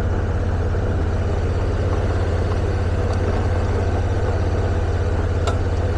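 Motorcycle engine running steadily while riding, a strong low drone with a fast, even pulse, plus two faint clicks.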